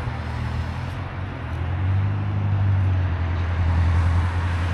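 Motor vehicle engine running nearby with road traffic noise: a steady low hum that grows louder about two seconds in.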